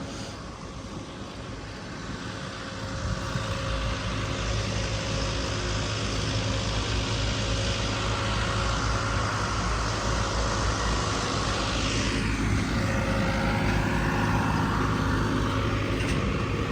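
A large engine running steadily. It gets louder about three seconds in and holds there, with a whine that dips and rises in pitch near the middle.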